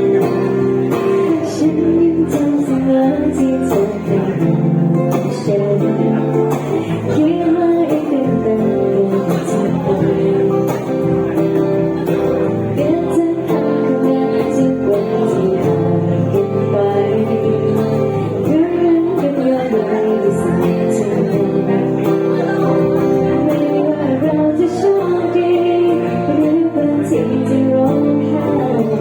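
Live music: an acoustic guitar strummed under a singing voice, playing steadily with no break.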